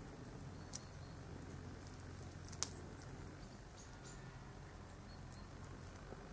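A cat eating a bird: two sharp crunches, about a second in and again near the middle, with a few faint ticks, over a steady low hum.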